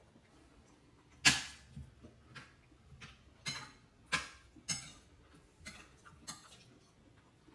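A utensil clicking and knocking against dishware, about nine light sharp strikes roughly every half second, the first the loudest.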